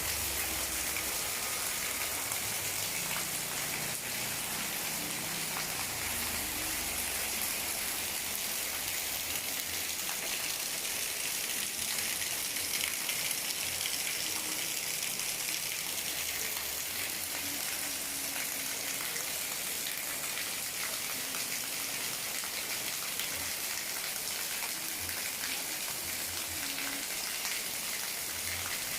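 Steady rain falling, an even hiss of drops hitting the ground and nearby surfaces.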